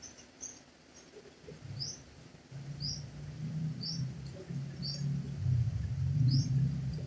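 A bird chirping, one short high chirp about every second. From about two and a half seconds in, a low hum rises beneath it and becomes the loudest sound.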